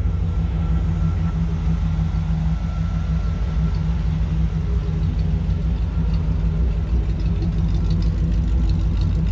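1957 Chevrolet 3100 pickup's 350 V8 idling steadily, a low even rumble, with a faint thin high whine over it in the first half.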